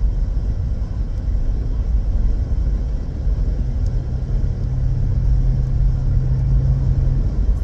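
Car engine and tyre road noise heard from inside the cabin while driving, a steady low rumble; a steady low hum joins about halfway through and fades near the end.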